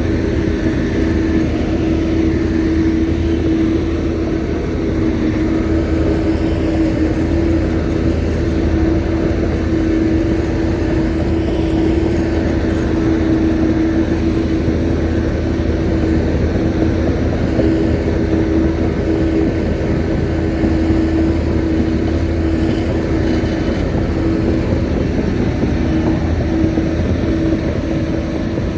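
Shantui bulldozer's diesel engine running steadily, with a constant droning tone over a low rumble.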